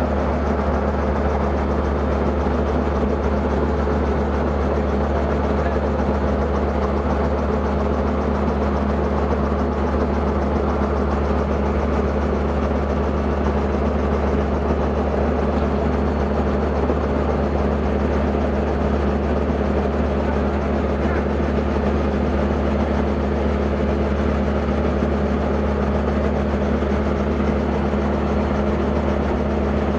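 Robinson R44 helicopter running steadily: a constant low drone of its piston engine and rotor with several steady tones, holding at one level with no change in pitch.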